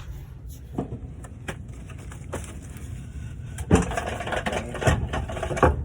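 Metal knocks and clunks from a transmission being worked into place on a transmission jack under a truck: a few scattered knocks, then a louder run of clanks in the second half, over a steady low rumble.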